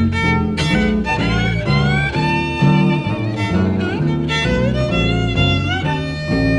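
Jazz violin playing a melodic line with vibrato and slides over rhythmic guitar chords and bass, in a live recording.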